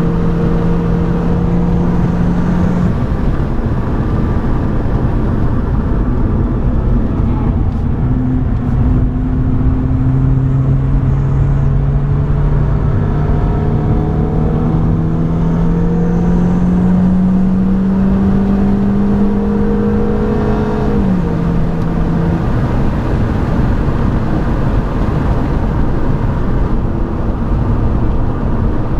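BMW 118i's four-cylinder petrol engine heard from inside the cabin under track driving, with heavy road and wind noise. The engine note climbs slowly for about thirteen seconds, then drops suddenly about three-quarters of the way through.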